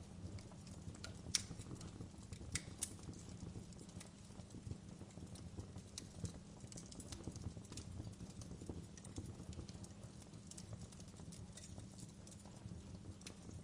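Wood fire crackling: irregular sharp snaps and pops over a steady low rumble, the loudest snap a little over a second in and two more soon after.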